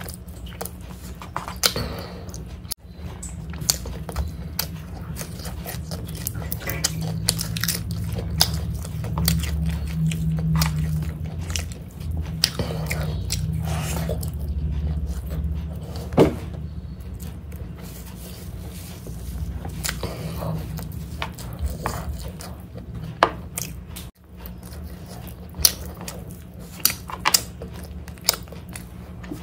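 Close-up eating sounds of a person chewing mouthfuls of chicken biryani taken by hand, with many sharp mouth clicks and smacks scattered irregularly and fingers working the rice on the plate. A steady low hum lies under it.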